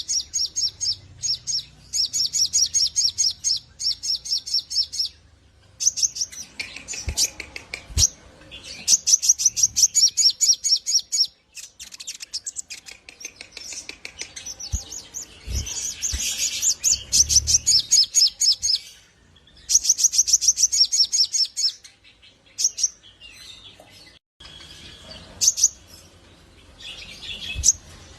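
A sogon (sogok ontong) bird singing in long bursts of very fast, high, repeated chirps, broken by short pauses, with a few faint low knocks.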